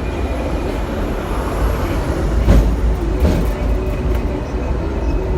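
Hong Kong double-decker electric tram running along its rails, heard from aboard: a steady low rumble, a faint high whine that fades out in the first two seconds, and a sharp clack about two and a half seconds in.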